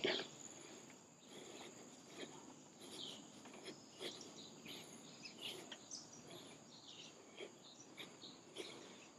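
Faint forest ambience: a steady high insect drone with scattered short bird chirps.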